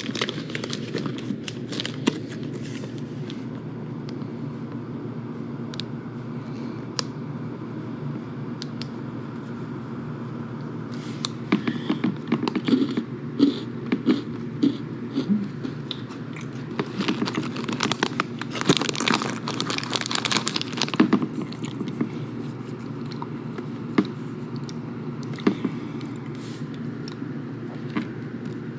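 Close-up biting and chewing of a crunchy snack, with crackly bites and chews coming in clusters, mostly in the second half, over a steady low background hum.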